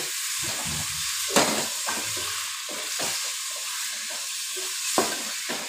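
Mutton pieces sizzling in hot oil with fried onions in an aluminium pot as they are stirred and browned with a spatula. A steady frying hiss runs under the stirring, with a sharper scrape or knock of the spatula on the pot about a second and a half in and again near the end.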